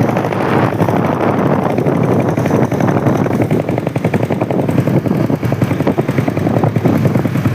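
Royal Enfield Bullet's single-cylinder engine running under way, its exhaust giving a rapid, even beat of pulses that grows more regular about halfway through.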